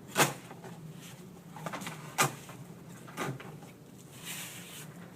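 Sheet-metal duct sections knocking sharply three times as they are handled and fitted end to end. A brief scraping hiss follows near the end.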